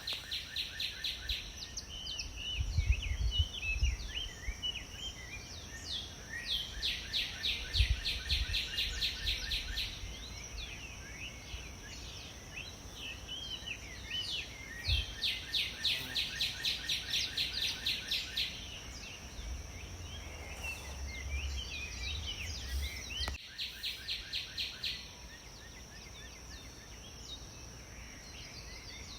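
Several birds singing outdoors in rapid, repeated trills and chirps, over a steady high-pitched whine. Low rumbling thumps, like wind or handling on the microphone, run under the song until about three-quarters of the way through.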